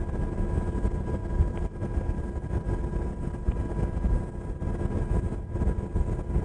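Cabin noise of a Black Hawk helicopter in flight: a steady low drone of rotors and engines, with a few thin steady whining tones above it.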